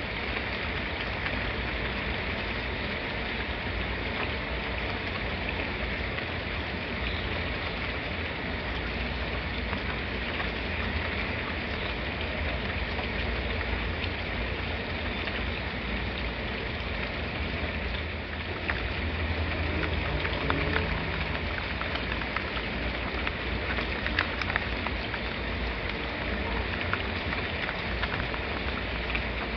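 Steady rain falling on a surface, an even hiss with scattered sharper drop hits that grow more frequent and a little louder in the second half.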